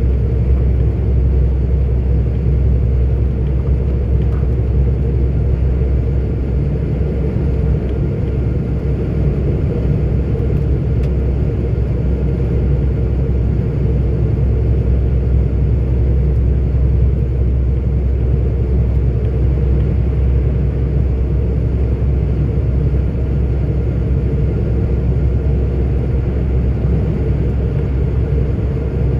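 A 44-ton articulated lorry running steadily along the road, heard from the cab: an even low drone of engine and road noise with no gear changes or breaks.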